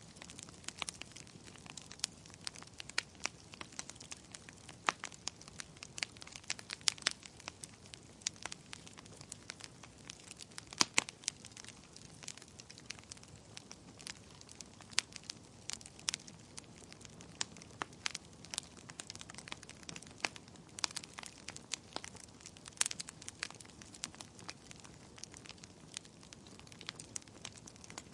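Wood fire burning, with frequent sharp, irregular crackles and pops over a faint steady hiss.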